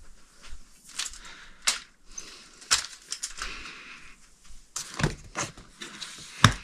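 Irregular clicks, taps and light rustling of small objects being handled, with a sharper knock about every second or so and the loudest near the end.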